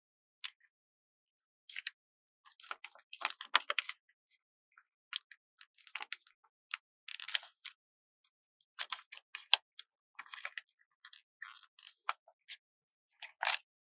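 Paper stickers being handled, peeled and pressed down: crisp crackling and rustling in short irregular bursts with silent gaps between them.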